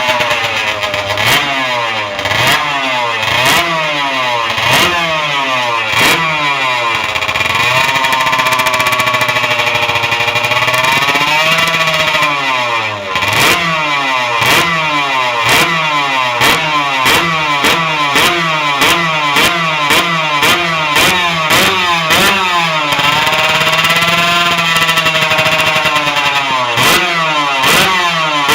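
Zanella motorcycle engine being revved over and over, its pitch rising and falling about once a second, with sharp crackles throughout. It is held at higher revs for a few seconds twice, once about a third of the way in and again near the end.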